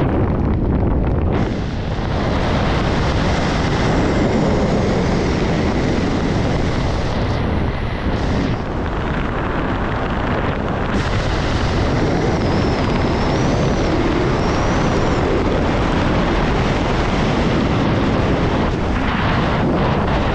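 Strong wind buffeting the camera microphone, a steady loud rushing roar with small surges.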